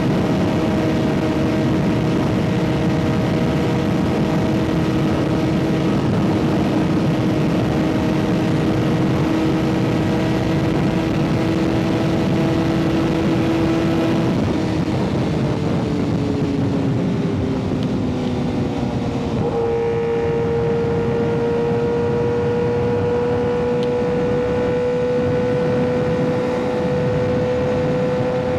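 Kawasaki ZX-6R 636 inline-four running through an M4 aftermarket exhaust while riding: a steady engine note at constant revs, which falls away for about five seconds past the middle, then jumps up about two-thirds of the way in and climbs slowly as it pulls again. Wind rush runs underneath.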